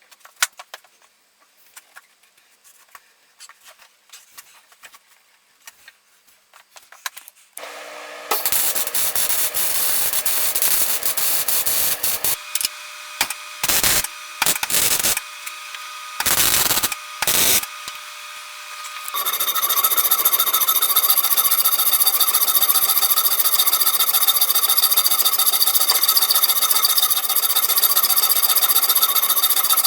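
Light clicks and handling noises, then a power tool starting about a quarter of the way in, run in short bursts with pauses, then running steadily through the last third.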